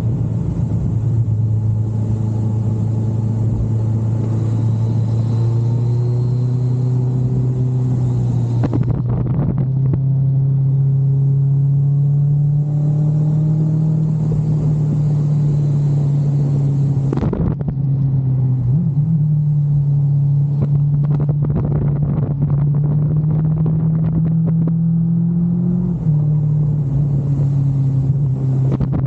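Kawasaki GTR 1400's inline-four engine running steadily under way, a low drone whose pitch creeps slowly upward and shifts suddenly a few times.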